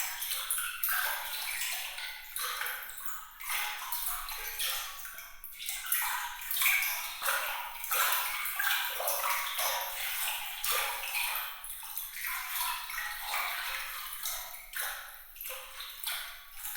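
Water trickling and splashing in a dense, irregular run of small bright splashes and drips. The sound is thin and sparkling, with no low rumble.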